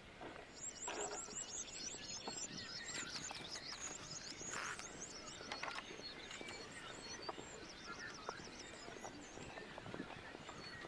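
Small birds singing in rapid, high-pitched trills and chirps, coming in bursts, with a brief rustle about halfway.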